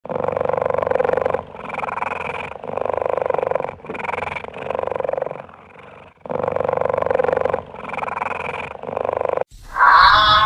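A large animal calling loudly in a series of long, rough, pulsing calls about a second each, strong calls alternating with weaker, higher ones, with a short pause midway through the series.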